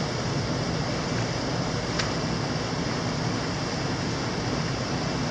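Mountain stream water rushing steadily, with one sharp click about two seconds in.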